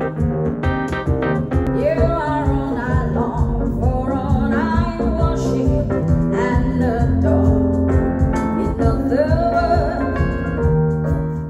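A song with a sung vocal line over heavy, steady bass, played back through a wireless speaker in a listening test. It cuts off suddenly at the end.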